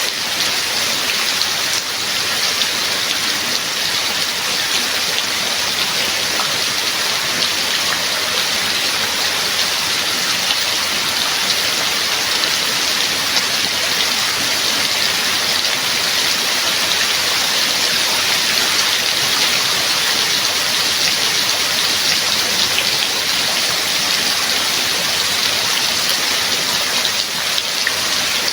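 Steady rain falling, a dense, even hiss of drops without a break.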